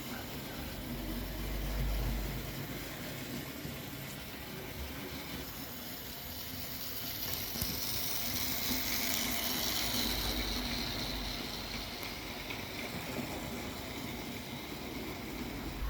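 Model railway locomotives running round the track: the steady whirr of small electric motors and wheels rolling on rail. It grows louder and hissier for a few seconds in the middle.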